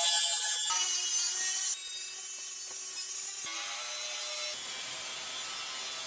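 Rasping, scraping noise of an abrasive or tool rubbing on a surface, in several short segments that change abruptly, loudest in the first second or two.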